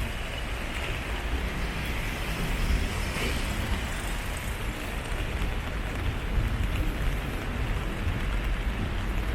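Steady city street noise on a rainy day: road traffic running without a break, with a constant low rumble underneath.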